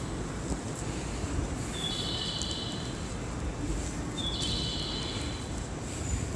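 Steady low rumble of a stationary electric express train waiting at a station platform, with two short high electronic chirps, about two and a half seconds apart.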